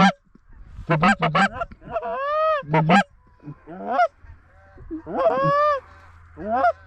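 Goose calling: a run of short, sharp honks and clucks, with two longer drawn-out honks that rise and fall in pitch.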